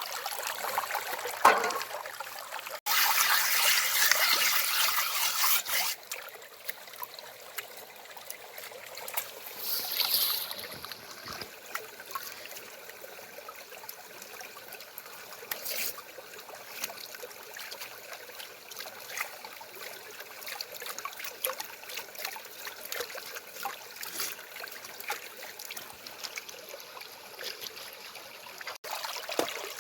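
Water trickling and splashing steadily, with a louder rush of water about three to six seconds in.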